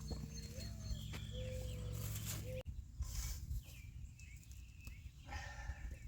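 A few short bird calls, thin whistled notes that glide in pitch, over a low steady rumble; the sound breaks off abruptly about two and a half seconds in, and fainter calls follow.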